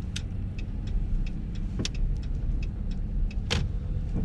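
Inside a moving truck: a steady low engine and road rumble, with the turn-signal indicator ticking evenly about three times a second. Three sharper knocks cut through it, about a second apart, one near the start and the loudest about three and a half seconds in.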